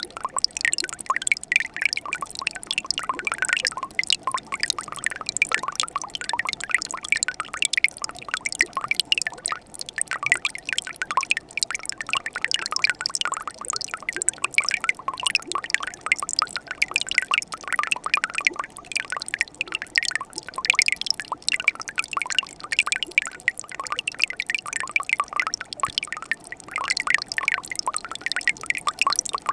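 A winter mountain stream flowing over rocks, with a dense, steady patter of small splashes and drips that never lets up.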